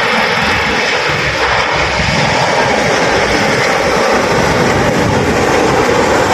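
Jet airliner's engines, loud and steady, sound swelling in just before and holding without a break.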